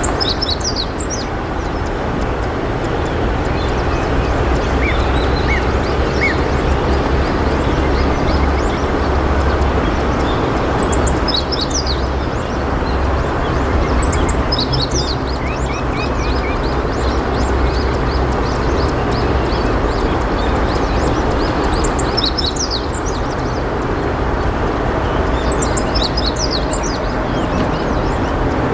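A steady, loud, low rushing noise, over which a small bird gives short clusters of high, thin chirps about five times, a few seconds apart.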